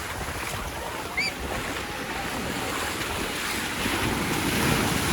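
Sea waves breaking and washing up a sandy beach, a steady rush of surf that swells near the end, with wind on the microphone. A bird gives one short, high, rising chirp about a second in.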